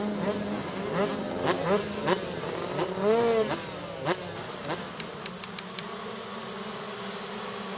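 Two-stroke 125cc motocross bikes revving, their pitch rising and falling as they accelerate and back off, the loudest rev about three seconds in. A quick run of sharp ticks follows, then a steadier, quieter engine drone.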